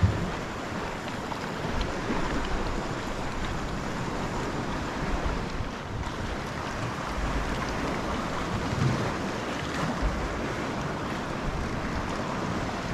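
Sea water washing and lapping, with wind rumbling on the microphone; a steady noise with no distinct events.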